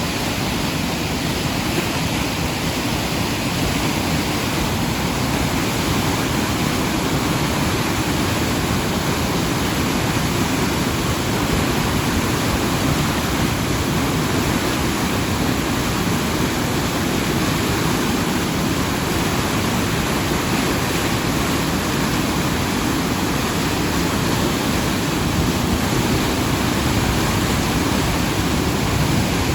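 A rain-swollen river in flood, its water rushing steadily and loudly.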